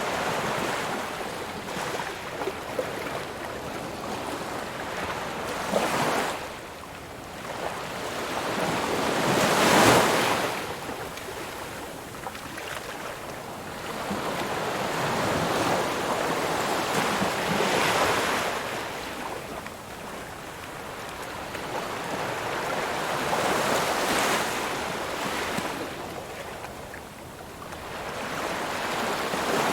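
Ocean waves breaking on a shore, the surf swelling and falling back in slow surges every several seconds, the largest about a third of the way in.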